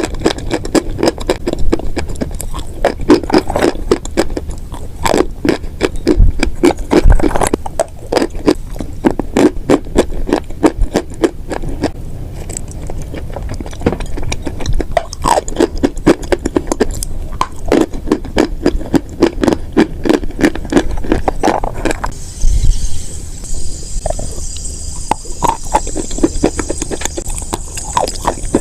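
Close-miked chewing of crunchy chalk and clay: rapid crackling crunches in bouts of a few seconds with short pauses between. A faint steady high hiss joins near the end.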